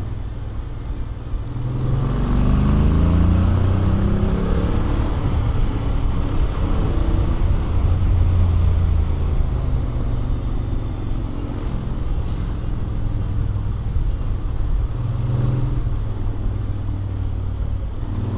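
Honda X-ADV 750's parallel-twin engine, stock exhaust with an Akrapovic manifold, picking up speed about two seconds in with the revs rising, then running at a steady cruise with small changes in engine speed.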